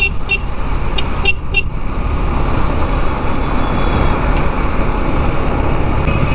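Steady road noise of a motorcycle ride in traffic: engine and wind rumble throughout. In the first two seconds a vehicle horn gives several short, high-pitched toots, three of them in quick succession about a second in.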